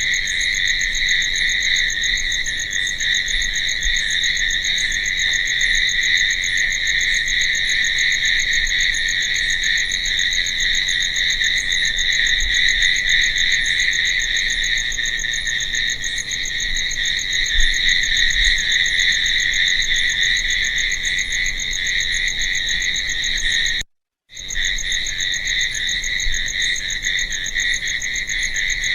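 Crickets chirping in a dense, steady night chorus. It cuts out abruptly for under half a second about 24 seconds in, then resumes.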